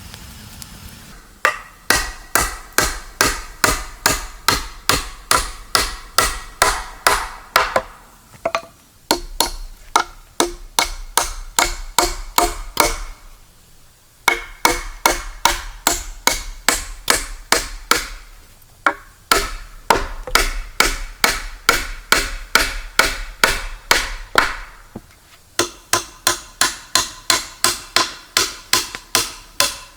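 Rapid, even strikes of a hand tool on wood, about three a second, in runs of four to six seconds with short pauses between them.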